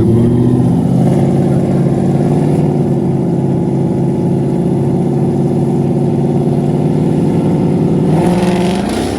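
Car engine running loud at a steady high rpm, its pitch held flat, then rising about eight seconds in as it accelerates.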